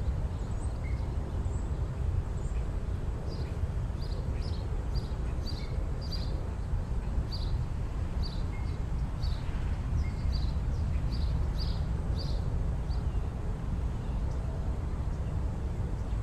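Outdoor ambience: a small bird chirps repeatedly, short high notes about twice a second for several seconds and then stopping, over a steady low rumble of wind or distant traffic.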